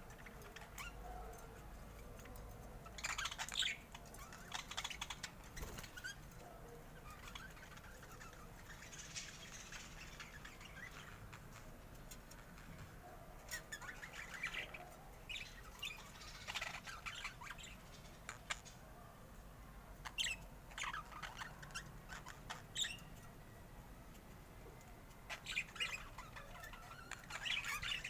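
Budgerigars chirping and chattering in short bursts every few seconds, with a few harsher squawks.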